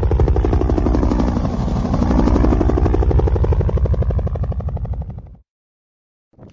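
An aircraft flying close past with a rapid chopping beat, its pitch sweeping as it passes. The sound cuts off abruptly about five seconds in.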